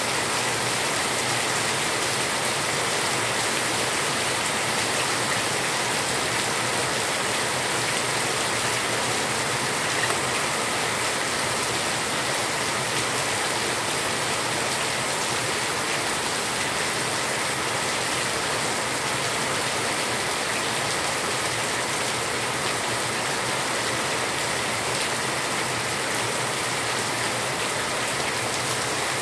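Heavy rain pouring steadily onto a concrete yard, a dense, even hiss of falling water.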